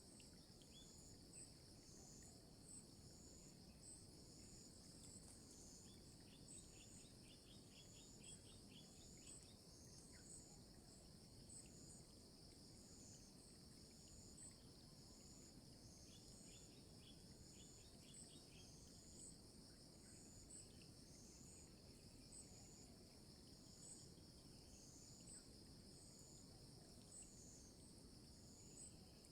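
Faint insect chorus: a steady high buzzing with short chirps repeating about once a second above it. Two brief rapid rattling trills come about a quarter and about three fifths of the way through.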